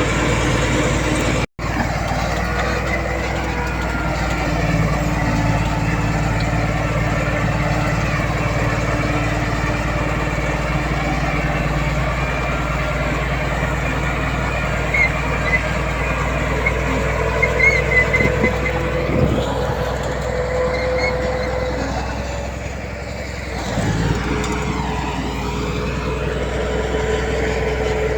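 Heavy diesel earthmoving machinery running steadily under work. The engine note shifts and dips briefly about three-quarters of the way through, with a few short high squeaks shortly before.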